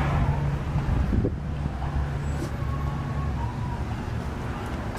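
2006 Ford Crown Victoria LX Sport's 4.6-litre V8 idling steadily, with a brief bump about a second in.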